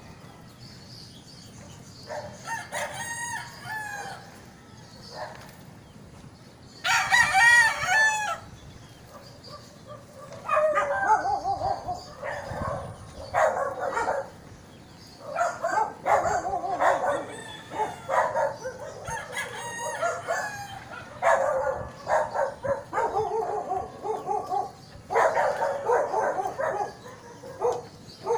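Roosters crowing again and again, with the loudest crow about seven seconds in and calls following one another closely through the rest of the time.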